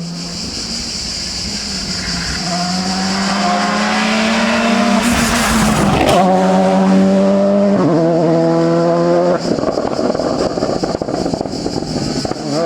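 Rally car engine at high revs, climbing in pitch as it approaches and passing with a loud rush about five seconds in, with gear changes heard as sudden steps in pitch. Rapid crackling follows in the last few seconds, over a steady buzz of cicadas.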